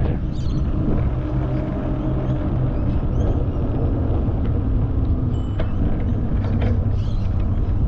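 Steady low rumble of riding a bicycle along a path: wind on the microphone mixed with tyre and road noise.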